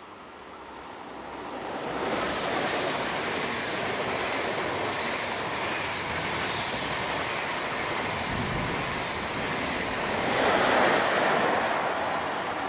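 A train passing close by: a rushing noise that builds over the first two seconds, holds steady, swells to its loudest about ten seconds in, then starts to fade.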